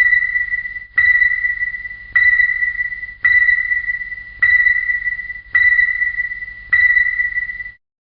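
A repeated high electronic ping: a single pitched tone that starts sharply and fades away, about once a second, with a faint low hum under it. It stops near the end.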